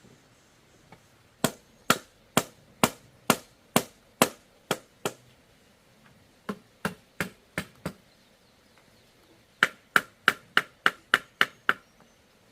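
A blade chopping into bamboo in three runs of sharp, regular strikes. The first run goes at about two strikes a second, and each later run is quicker, the last nearly four a second.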